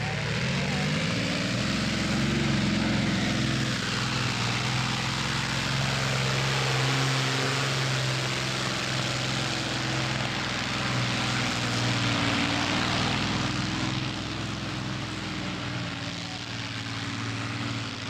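Competition pulling tractor's engine revving up over the first couple of seconds, then running hard at high, fairly steady revs.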